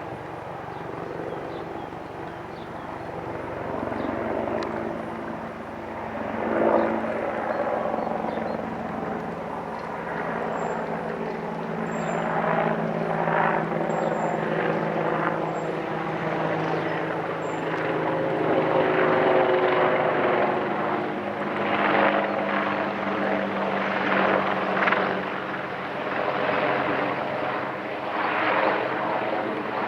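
Boeing AH-64 Apache helicopter flying overhead: its twin turboshaft engines and rotor give a steady hum of several held tones, with a rushing rotor noise that swells and fades again and again, growing louder in the second half.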